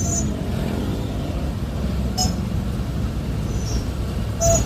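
Steady rumble of road traffic, with voices in the background and a few short high clinks.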